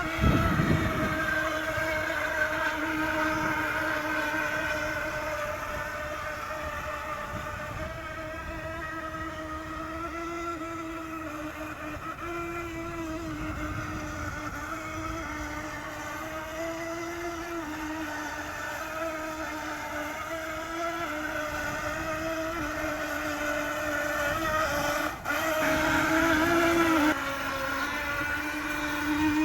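Twin electric motors of a toy RC speed boat running with a steady whine whose pitch shifts slightly as the throttle changes. It is louder at first, fades somewhat, then swells again near the end.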